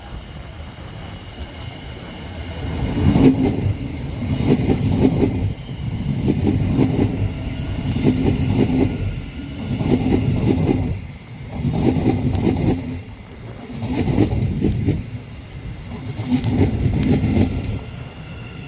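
A Thameslink Class 700 electric multiple unit passing slowly. Its wheels clatter in a regular beat, a burst about every couple of seconds as each coach goes by, starting about three seconds in.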